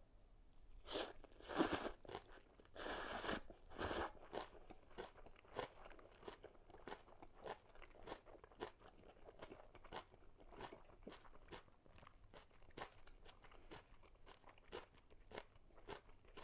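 Crisp crunching bites of kimchi, several loud crunches close together, then steady wet chewing with small quieter crunches a few times a second.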